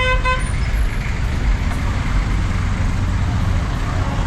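Two quick toots of a vehicle horn at the start, over the steady rumble of engines and street traffic.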